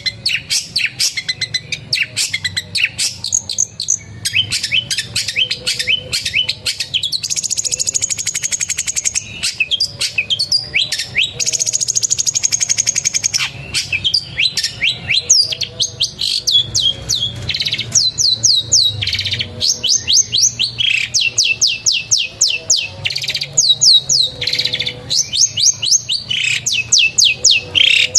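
Long-tailed shrike (pentet) singing continuously: a rapid run of sharp falling chirps, broken twice by a high, fast trill of about two seconds, the canary phrases it has learnt to mimic.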